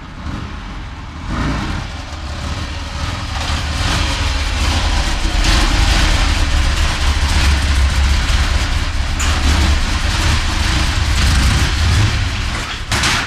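Motor vehicle running: a deep engine rumble under a broad rush of road noise, growing louder over the first few seconds and then holding, with a short loud rush of noise near the end.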